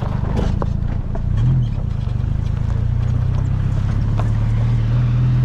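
The small four-cylinder engine of an open-top MG Midget running steadily under way, with a brief rise about a second and a half in and a few light knocks.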